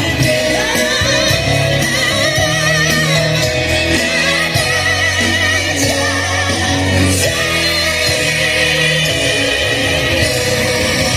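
A Christmas song performed live: a singer's voice with vibrato over a full instrumental accompaniment with a steady bass line.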